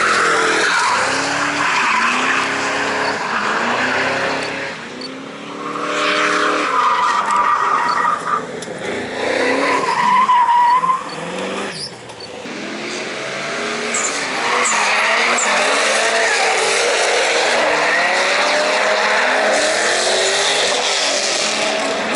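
Drift cars sliding on the track: engines revving up and down, with tire squeal that is loudest midway through.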